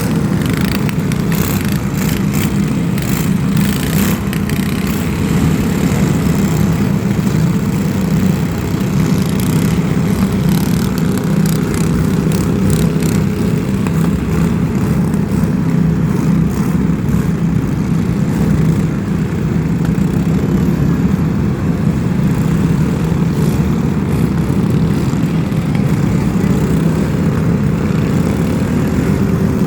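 Steady, loud drone of a running vehicle engine, deep and unbroken, with a few sharp clicks in the first few seconds.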